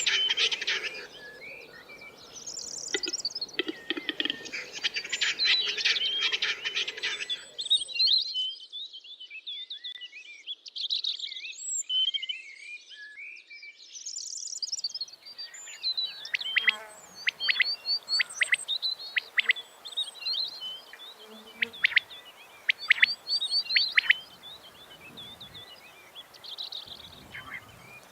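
Several small songbirds chirping and twittering. A dense, fast chattering runs for about the first seven seconds, then gives way to scattered chirps and whistles and short, sharp high notes.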